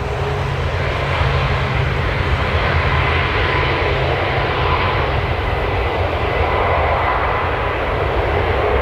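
Jet airliner's engines running, a steady rushing noise with a faint whine; near the end a whine begins to rise in pitch.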